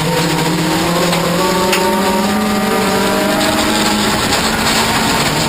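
Toyota Corolla offroad race car's engine running hard under load. Its pitch climbs slowly over the first couple of seconds and then holds, over a steady rushing noise.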